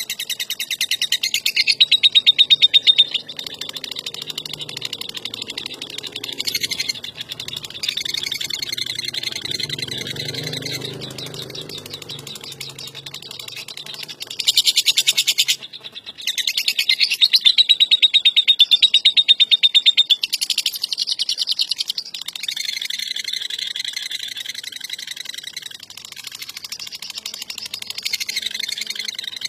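Lovebird chattering in a long, fast, shrill trill (the 'ngekek'), going almost without a break, louder about two seconds in and again from about fifteen to twenty seconds.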